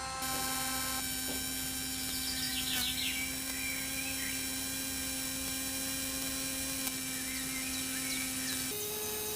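Small electric motor running with a steady whine. Near the end its pitch steps up to a higher steady tone.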